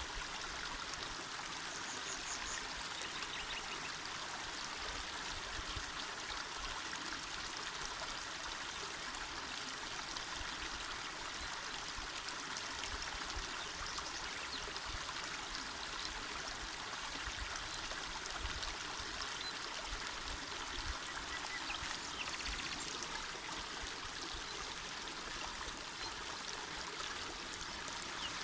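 Small mountain river running over stones: a steady, even rushing and babbling of water.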